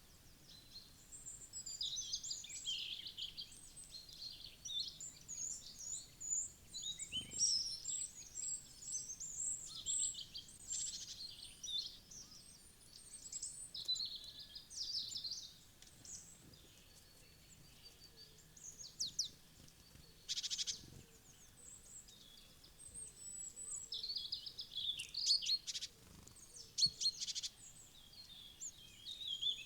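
Small woodland birds chirping and twittering in bursts, several high calls overlapping, with a lull in the middle.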